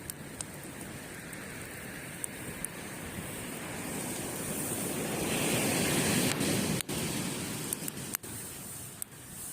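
Sea waves breaking on a beach, one wave swelling up and washing in about halfway through before falling back, with a few sharp crackles from a campfire.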